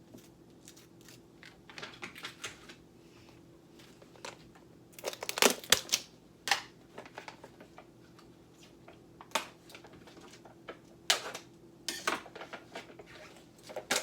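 Irregular light clicks and taps of kitchen utensils and food containers being handled, with louder clusters about five seconds in and again around eleven seconds.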